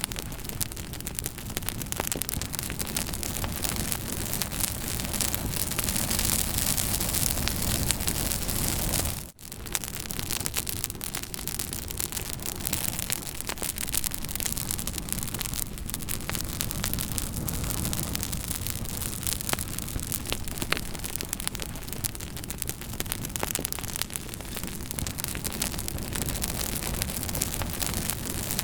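Campfire crackling, with frequent sharp pops and snaps over a steady hiss of burning. The sound briefly drops out about nine seconds in.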